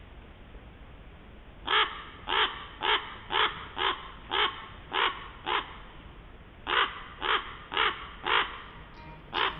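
A crow cawing: a series of short, harsh calls about two a second, eight in a row, then after a pause four more and a last one near the end.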